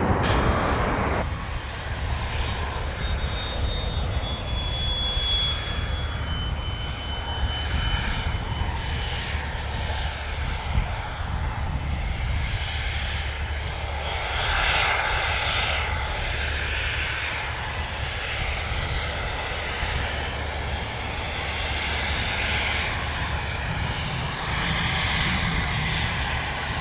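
Fixed-wing aircraft engines running steadily with a low rumble. A thin high-pitched whine a few seconds in drops slightly in pitch.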